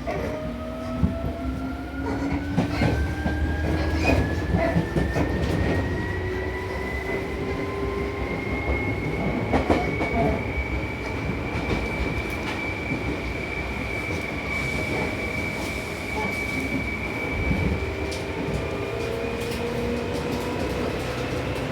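Seibu New 2000 series electric train gathering speed: the traction motors' whine rises steadily and levels off about halfway through. Under it run the rumble of the running gear and scattered clicks of wheels over rail joints.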